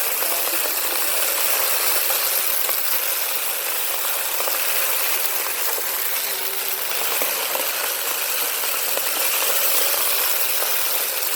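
Bissell Power Force Compact bagless upright vacuum running steadily while sucking up sand and debris, with grit rattling and clicking through it over the motor's rush of air.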